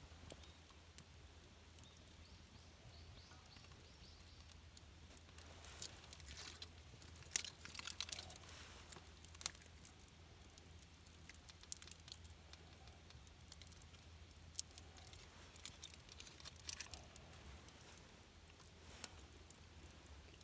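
Sparse light clicks and short bursts of rustling over a faint steady hum, the loudest click about seven seconds in.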